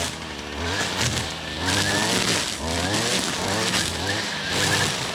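Gas weed eater with a string-trimmer head running and revving up and down about every second, cutting through tall grass and weeds.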